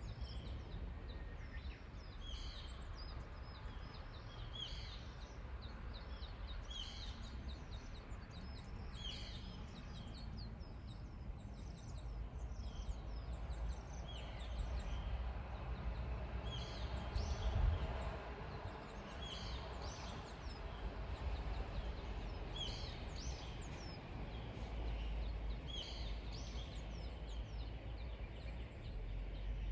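Songbirds singing, one repeating a short high phrase about once a second with other calls among it, over a steady low rumble.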